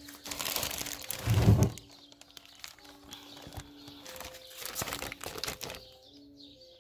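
Packaging crinkling as it is handled, with a heavy thump about a second and a half in and more crinkling later on.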